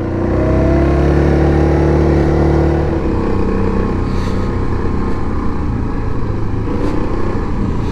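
Yamaha Grizzly 700 ATV engine running under throttle on the trail. Its pitch rises slightly for the first three seconds, then it runs on steadily.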